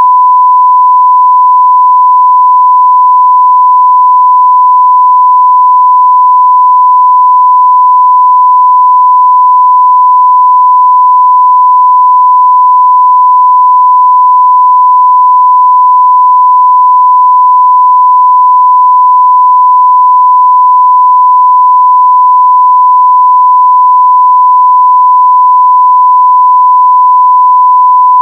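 A continuous 1 kHz sine-wave test tone at full scale (0 dB), pure and unchanging, used for audio testing.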